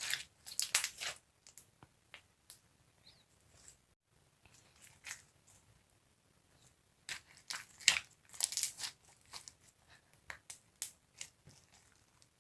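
Slime being squeezed and stretched by hand, giving bursts of crackling, clicking pops, loudest about half a second in and again from about seven to nine seconds in, with sparse quieter clicks between.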